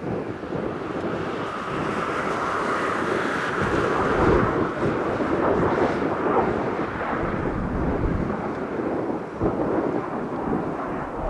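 Jet roar from Blue Impulse's Kawasaki T-4 trainers flying past, swelling to its loudest about four to six seconds in and then easing off, with wind buffeting the microphone.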